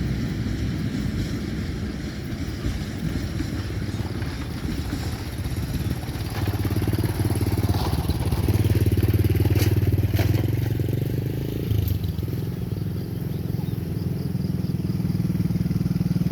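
Motorcycle engines running as road traffic moves past, growing louder about six seconds in and again near the end.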